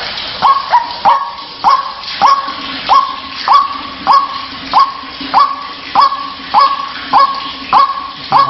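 White-breasted waterhen (ruak-ruak) calling: a steady, even run of short notes about every 0.6 seconds, each sweeping sharply up and then holding near one pitch, over a hiss of background noise.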